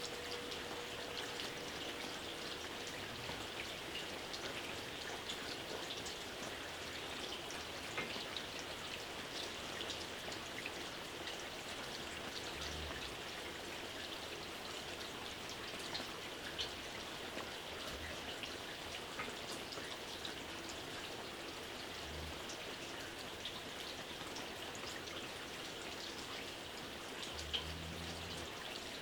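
Steady light rain: an even hiss dense with small raindrop patters, a few louder single drops now and then, and several brief low thuds.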